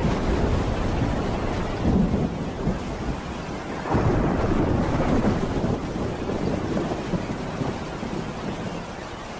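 Thunderstorm: rolling thunder rumbling over steady rain, with swells of thunder about two and four seconds in, then slowly dying away.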